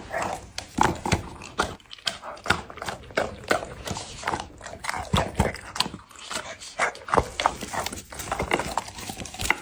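Brown Labrador chewing and crunching its food: irregular sharp crunches, one to three a second.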